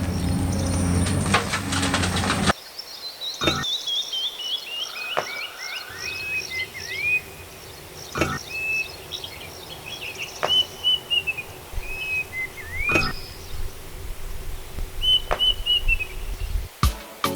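Birds singing: a quick descending run of short chirps, then repeated whistled notes, with a few sharp clicks in between. For the first couple of seconds a loud, steady mechanical running noise covers everything, then cuts off abruptly.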